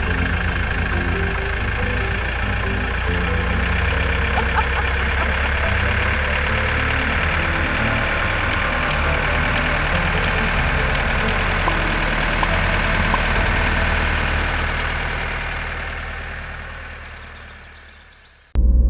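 An engine running steadily at idle, fading out near the end.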